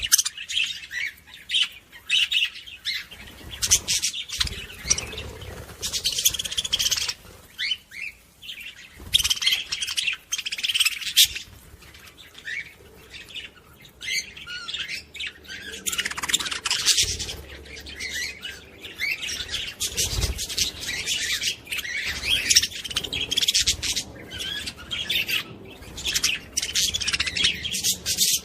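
A group of small pet parrots, budgerigar-type birds, chattering and chirping continuously, with frequent short sharp clicks mixed in.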